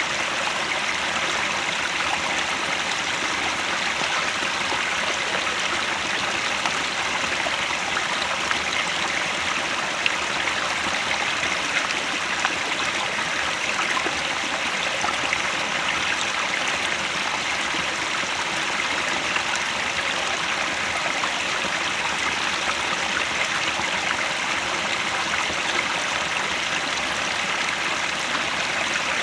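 Headwater mountain stream flowing, a steady rush of water that holds even throughout.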